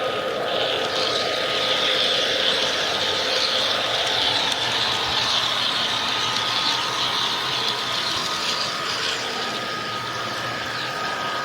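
G-scale model train running along a garden railway, with a steady mechanical rattle of wheels on rail and gearing. It grows louder about a second in as it comes by and eases off near the end.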